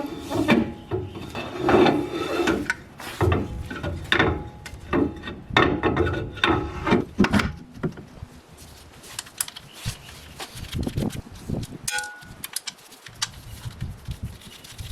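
Toyota Hilux rear axle shaft being fitted into the axle housing: a quick run of metal clunks and scrapes that thins to scattered light ticks about halfway through, with a brief short ring near the end.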